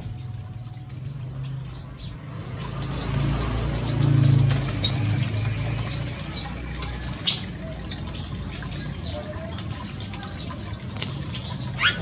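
Small birds chirping: many short, high, downward-sliding notes in quick irregular series, starting a couple of seconds in, over a low steady hum.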